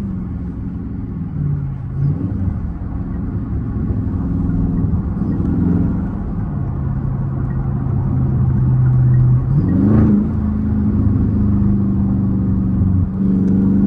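Car engine heard from inside the cabin while driving, its note holding steady for several seconds, then rising sharply about ten seconds in as it revs up and holding at the higher pitch.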